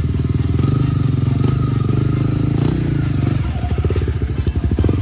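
Enduro dirt-bike engine running at a steady pace, its firing pulses even and the pitch holding level.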